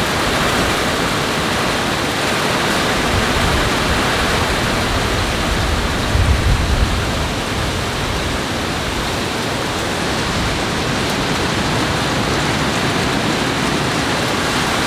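Heavy rain pouring down in a steady rushing hiss, with a brief low rumble about six seconds in.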